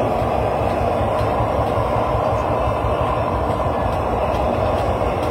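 Steady roaring hiss of a blowtorch heating the hot-bulb ignition plate of a Lanz Bulldog before a start, the single-cylinder engine not yet running.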